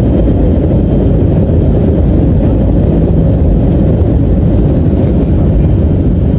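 Steady, loud low rumble of a Boeing 737-300's CFM56 jet engines and airflow, heard from inside the passenger cabin.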